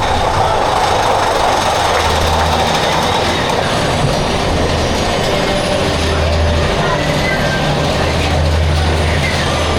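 Mine-train roller coaster car running along its track: a steady, loud rumble and rattle of wheels on the rails.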